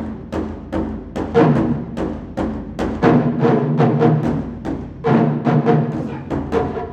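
Japanese taiko drums struck in a fast, driving rhythm, with louder phrases about a second and a half, three and five seconds in, over a steady sustained pitched tone.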